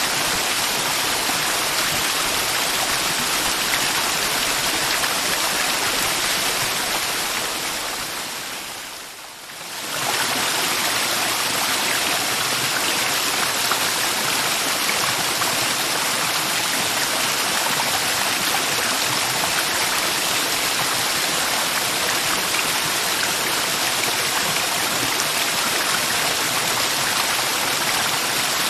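Mountain river water rushing steadily. The sound fades down briefly about a third of the way in, then comes back at full level.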